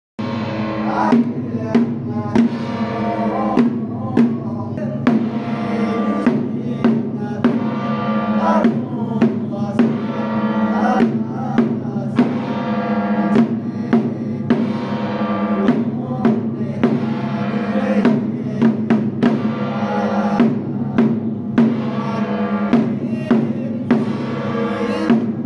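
Temple procession music: drums and cymbal-like percussion strike a steady beat under a continuous pitched melody over a held drone.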